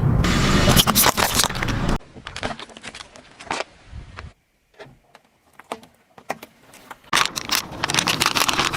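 Crackling and crunching of objects being crushed under a car's tyres, heard as dense sharp cracks. The sound cuts off abruptly about two seconds in, thins to a few clicks and then near silence, and returns loud about seven seconds in.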